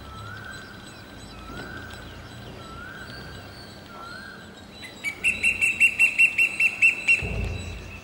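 Birds calling: a short note rising in pitch repeats about once a second. About five seconds in, a loud, fast run of about ten high whistled notes takes over for some two seconds. A low thump follows near the end.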